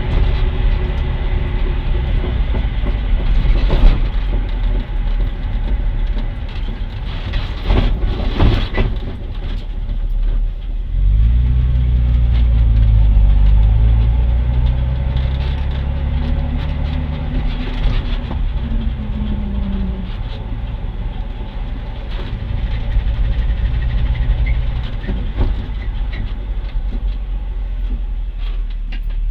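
A 1999 Ford Mustang driving, its engine and road noise steady, with a few sharp clunks early on and again about eight seconds in. The engine note swells partway through, then falls in pitch as the car slows. The clunks are the deceleration noise in a car with a welded differential.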